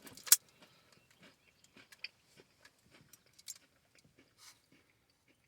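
A person biting and chewing a crunchy fudge-coated mint cookie: a sharp snap near the start, then soft, irregular chewing crackles.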